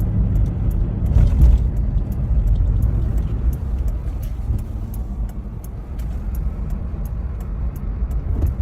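A car driving, heard as a steady low road rumble, with faint sharp ticks, a few a second, running through it.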